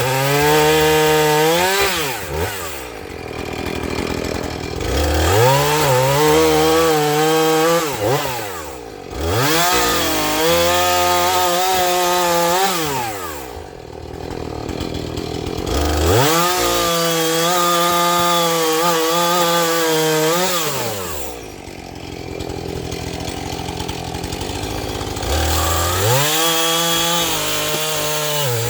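Husqvarna two-stroke chainsaw running at high revs and cutting wood, the engine pitch sinking under load and climbing back again four times.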